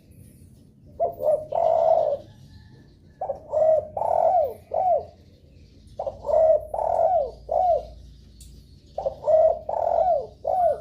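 Derkuku (spotted dove) cooing: four phrases about three seconds apart, each a quick run of short coos ending in a longer, falling coo. It is a lure call, the song used to prompt other derkuku to start singing.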